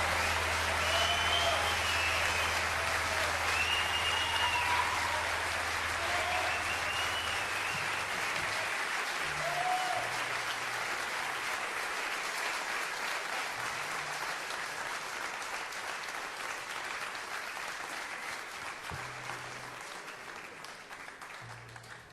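Audience applauding, with a few cheers or whistles early on. A low held note dies away about seven seconds in, and the applause slowly fades out.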